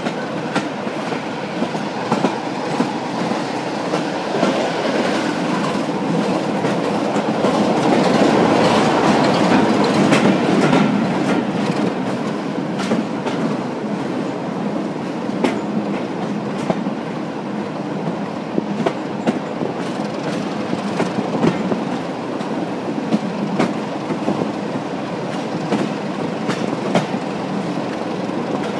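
Diesel-hauled passenger train heard from an open coach window while running: a steady rumble and rush of air, with the clickety-clack of wheels over rail joints. It grows louder for a few seconds about eight seconds in.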